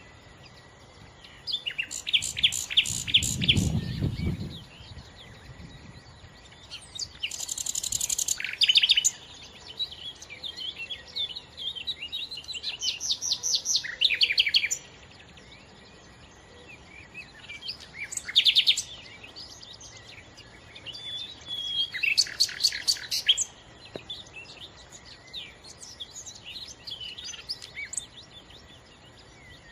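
Nightingale singing: separate phrases of fast, repeated high notes and trills, each a second or two long, with pauses of a few seconds between them. A brief low rumble sounds about three seconds in.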